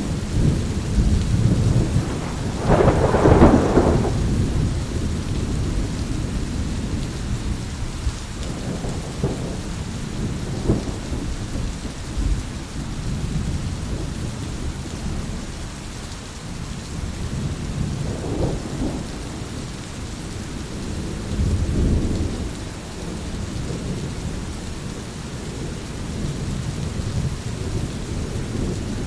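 Thunderstorm: steady rain with rolling rumbles of thunder, the loudest swelling about three seconds in and weaker rumbles coming back several times later.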